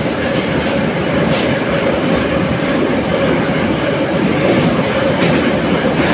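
Interior of an 81-717.5 metro car running at speed through a tunnel: a loud, steady rumble of wheels and tunnel with a constant hum. A couple of wheel clacks over rail joints cut through it.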